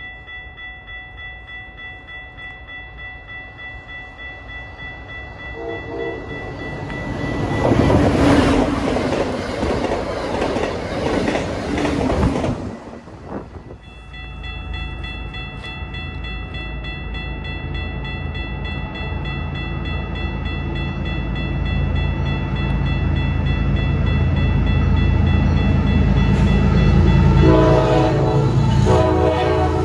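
Trains at a station. A high steady ringing goes on behind, and a horn sounds briefly about six seconds in. Then a train rushes past loudly for several seconds and cuts off sharply. After that a locomotive's low rumble builds, with two horn blasts near the end.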